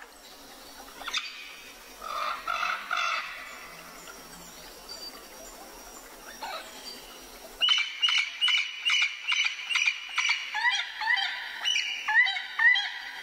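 Bird calls over a soft outdoor background. About eight seconds in it switches abruptly to a louder, busier chorus of rapid repeated chirps and short rising calls.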